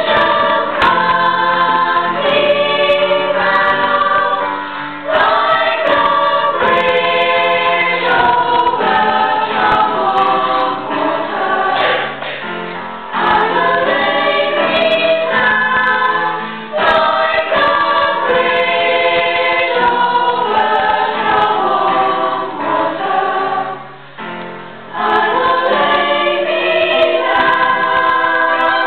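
Choir singing a song in parts, in phrases with short breaks between them.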